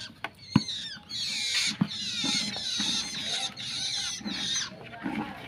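A young long-tailed shrike gives several bursts of high, squeaky chattering calls. There is a sharp click just over half a second in, the loudest sound, and another near the two-second mark.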